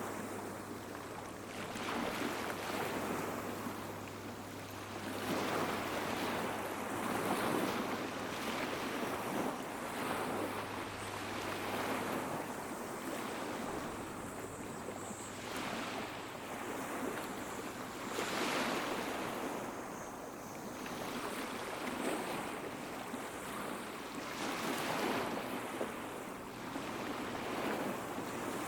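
Small sea waves breaking and washing up the beach, swelling in surges every two to three seconds, with cicadas singing faintly behind.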